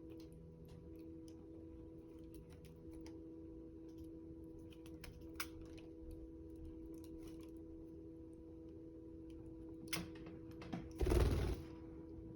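Budgie bathing: faint scattered ticks and taps over a steady low hum, then a loud, brief flurry of wing-flapping about eleven seconds in.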